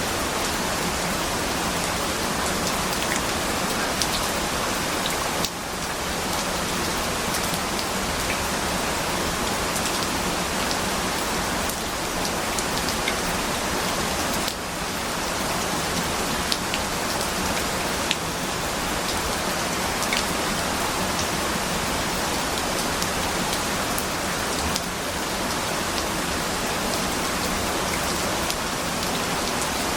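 Steady rain: an even hiss of rainfall with scattered individual drops ticking through it, dipping slightly for a moment twice.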